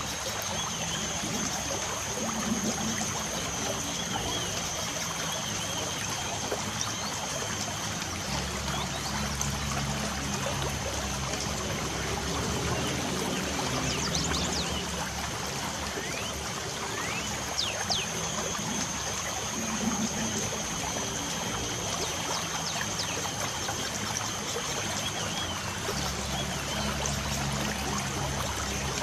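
Light rain falling as a steady trickling wash, with a few brief bird chirps in the middle and a thin high steady tone that comes and goes.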